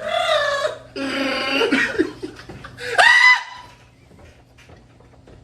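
A woman's long, howling laugh that sounds like Chewbacca's roar: three drawn-out warbling cries, the third short and sharply rising in pitch about three seconds in.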